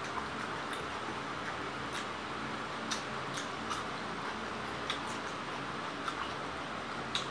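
A man chewing food with his mouth closed: small, scattered mouth clicks and smacks over a steady background hiss and faint hum.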